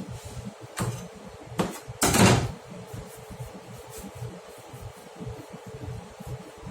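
A couple of light knocks, then one louder short clatter about two seconds in, like a cupboard door or tray being handled, over a steady low hum.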